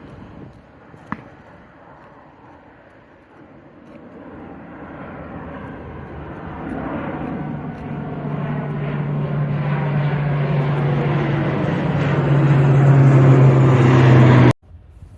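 Airliner engines at takeoff power, growing steadily louder as the plane climbs toward and over the listener, with a steady low drone and a sweeping rushing sound; the sound cuts off abruptly near the end. A single click about a second in.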